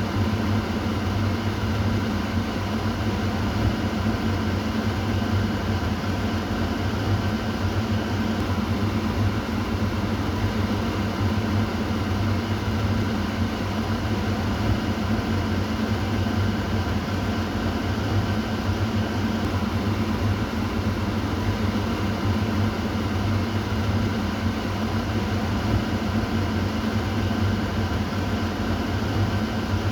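Kitchen exhaust fan running steadily: an even whoosh of moving air over a low motor hum.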